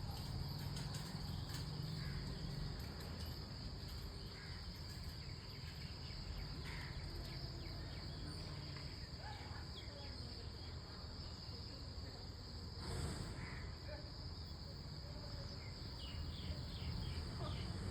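Steady, high-pitched chorus of insects, with a few faint, scattered chirps over it.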